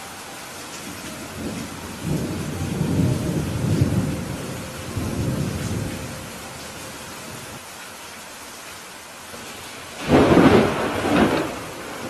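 Steady rain with thunder. A low rolling rumble runs from about two to six seconds in, then a sharper, louder thunderclap comes about ten seconds in, with a second crack just after it.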